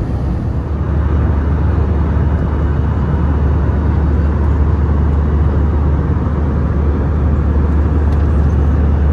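Steady rumble of cabin noise inside an Airbus A321-200 airliner in flight, heaviest in the deep low end, stepping up slightly about a second in.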